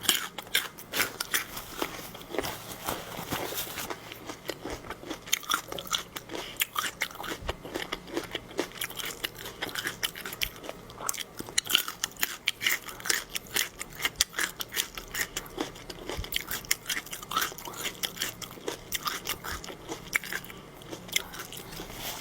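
A person chewing and biting crunchy food close to the microphone: a dense, irregular run of small crunches and wet clicks.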